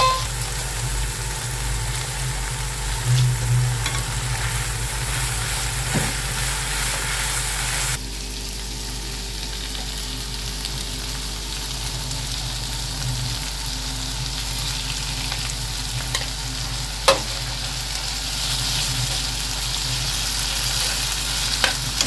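Minced meat, onion and walnut mixture sizzling in a non-stick frying pan as it is stirred and scraped with a metal spoon, with a few sharp clinks of the spoon against the pan, the loudest about 17 seconds in.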